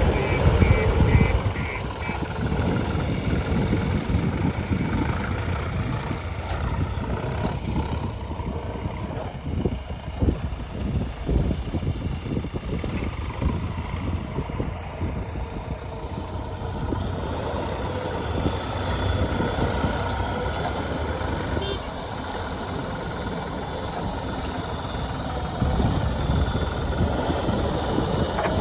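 Heavy diesel engines of a backhoe loader and tractors running at work, the sound rising and falling unevenly as the machine loads mud. A run of short, evenly spaced beeps sounds in the first two seconds.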